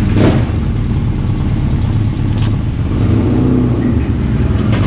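Yamaha Tracer 9's three-cylinder engine running steadily at low revs, with a slight rise in revs about three seconds in.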